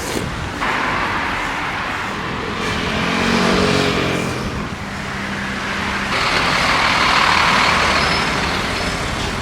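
City road traffic passing close by, heard from a moving bicycle: motor vehicles going by in surges, with a large vehicle's engine passing about three to four seconds in.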